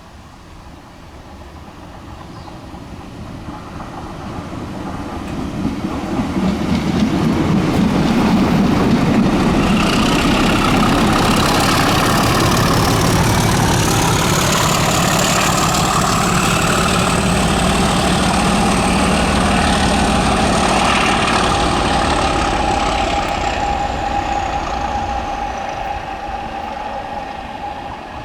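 A test train passing at speed with a British Rail Class 37 diesel locomotive, its English Electric V12 engine working, on the rear: the rumble of engine and wheels builds, holds loud for about fifteen seconds and fades. A high whine rises as the train comes near and falls away as it goes.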